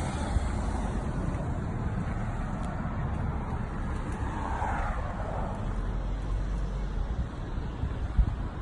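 Steady outdoor vehicle noise with a low rumble, swelling briefly about halfway through, with a single short knock near the end.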